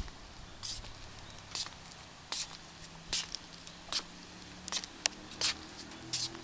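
Footsteps: short scuffing steps at an even pace, a little under one a second, with a faint low hum behind them.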